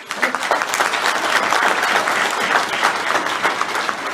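Audience applauding, a sustained round of many hands clapping that starts suddenly and fades slightly near the end.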